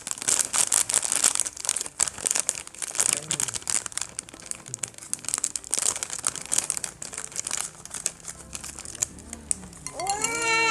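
Plastic-foil snack bag of Jack 'n Jill Roller Coaster potato rings crinkling and rustling as it is handled and torn open, busiest for the first several seconds. A high, drawn-out cry begins near the end.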